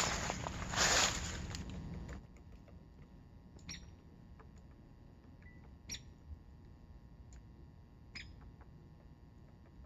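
Woodpecker making three sharp, short clicks about two seconds apart, each with a brief high ring, with fainter ticks between them. A burst of rustling noise at the start fades out in the first two seconds.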